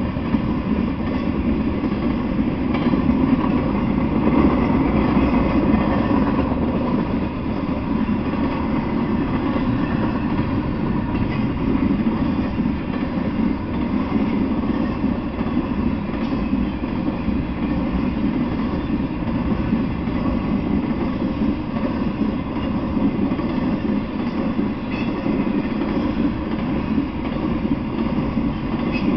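Intermodal freight train of highway trailers on flatcars rolling past at a steady speed, a continuous noise of steel wheels on the rails with no let-up.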